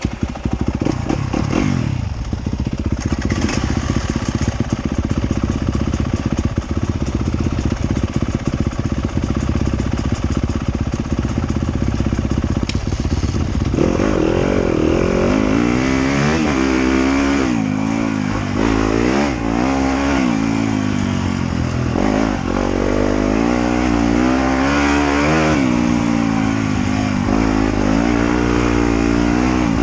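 Motorcycle engine catching and idling steadily, then revving up and down repeatedly from about halfway through as the bike pulls away and rides through the gears.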